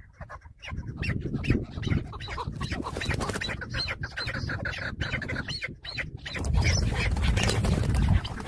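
Chukar partridges calling in rapid, repeated clucking notes, with a low rumble joining in for the last couple of seconds.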